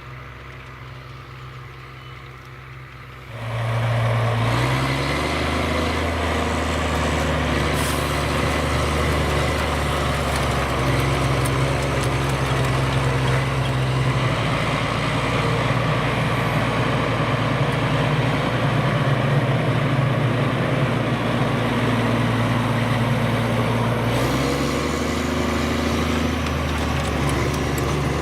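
Claas Xerion 5000 tractor's engine running steadily while pulling a Köckerling Rebell cultivator. The engine is faint at first, then suddenly much louder about three and a half seconds in, and holds that level; its note shifts a few seconds before the end.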